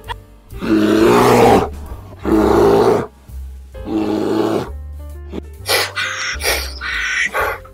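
Three loud, rough animal calls about a second each, then a quick run of shorter calls, over background music.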